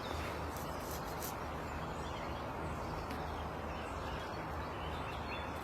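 Steady outdoor background noise with a low hum, and faint bird calls and chirps here and there.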